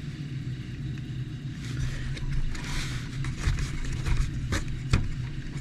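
Small plastic parts of an RC truck's shocks being handled and fitted by hand: scattered light clicks and rustles over a steady low hum.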